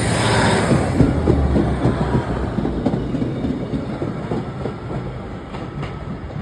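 Train running on the rails with a clickety-clack of wheels over the track, rumbling and fading steadily as it draws away.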